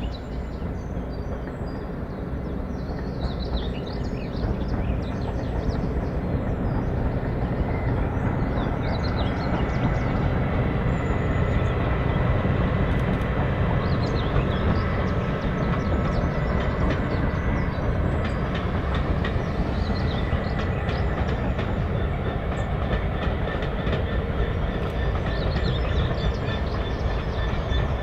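Diesel-hauled heritage train running on the rails, its rumble and wheel clatter building over the first several seconds and then holding steady.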